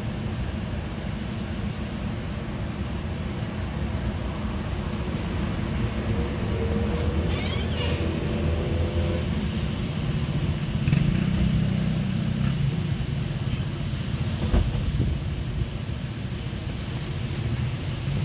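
Container freight train hauled by an FS E652 'Tigre' electric locomotive rolling across a stone viaduct: a steady low rumble of wheels on rail that grows a little louder past the middle, with a few brief thin squeals about a third of the way in.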